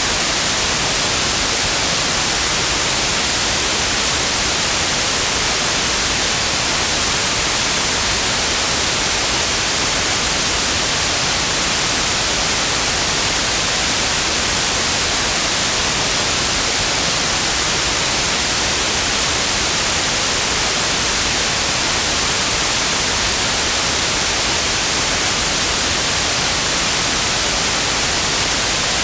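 Steady white noise: an even hiss across all pitches, brightest in the highs, with no change.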